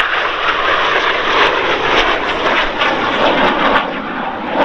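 Red Arrows BAE Hawk T1 jets flying past, their Adour turbofan engines making a loud, steady rushing jet roar that eases slightly near the end.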